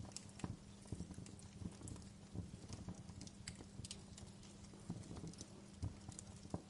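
Wood campfire crackling, with irregular sharp pops and snaps several times a second over a faint low steady hum.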